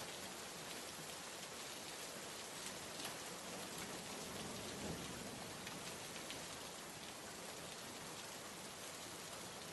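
Steady rain ambience: an even hiss of rainfall with scattered individual drops ticking.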